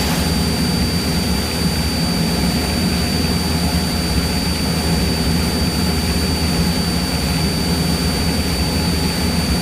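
Cessna 172's piston engine and propeller droning steadily in flight, heard from inside the cabin, with a thin steady high whine over it.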